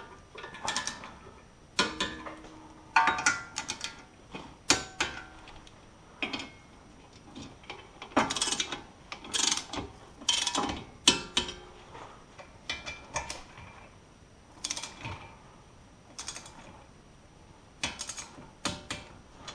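Ratchet clicks and metal clinks, irregular and sharp, some ringing briefly, from a low-range torque wrench tightening small bolts to 10 Nm.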